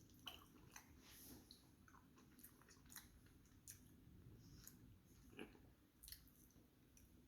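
Faint chewing of a bite of fried venison sausage patty, with irregular small wet mouth clicks and crunches.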